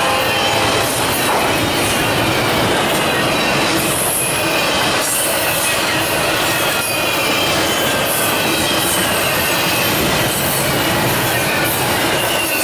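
Freight train cars rolling past, steel wheels on rail giving a steady loud rolling noise with a high wheel squeal that drifts slowly in pitch, and a few clicks as wheels cross rail joints.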